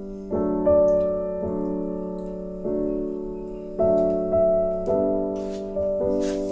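Background piano music: slow, sustained chords struck about once a second, each ringing and fading before the next.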